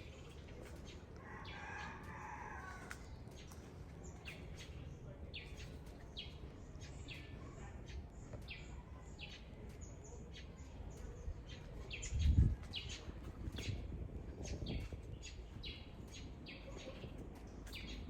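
Birds chirping over and over in short, high notes, with one longer, lower call about two seconds in. A brief low rumble about twelve seconds in is the loudest moment.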